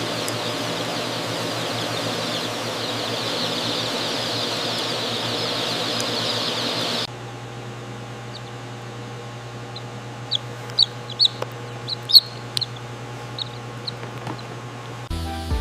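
Many chickens calling together in a barn over a steady low hum. About seven seconds in, the dense chatter drops to a quieter background, with a few sharp, loud, high chirps standing out.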